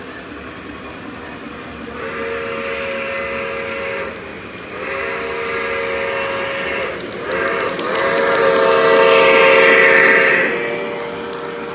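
O-gauge model steam locomotive's sound system sounding a chime steam whistle in two long blasts, a short blast and a final long blast, the grade-crossing signal, over the steady running noise of the train on the track.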